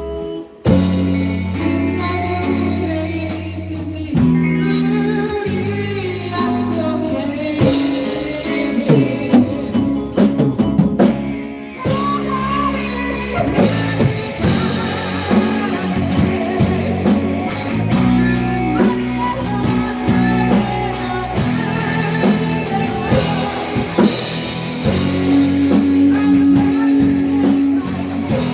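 Rock band playing live in a rehearsal room, with a male singer over electric guitar, bass and drum kit, in a rock ballad. The drums pick up a steady beat of cymbal strokes about halfway through.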